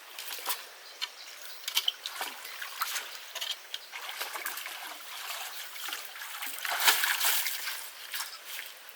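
Water splashing and trickling in a run of many small, irregular splashes, with a louder stretch of splashing about seven seconds in.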